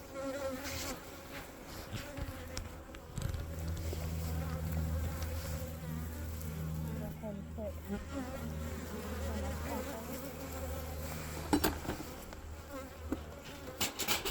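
Honeybees buzzing around an opened hive: a steady hum, with single bees' buzz wavering in pitch as they fly close. A few sharp knocks near the end.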